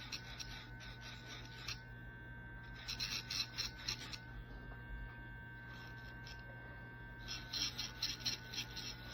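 Small battery electric pet nail grinder running with a steady whine while grinding a dog's nails. Three spells of rasping as the spinning grinder touches the nail: at the start, about three seconds in, and from about seven seconds on.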